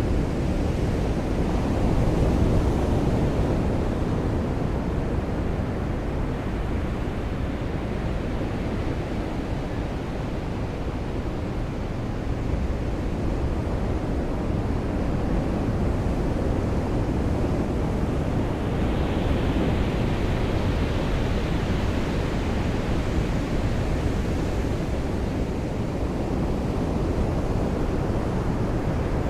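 Ocean surf washing on a beach, a steady low rush that swells a little near the start and again about two-thirds of the way through.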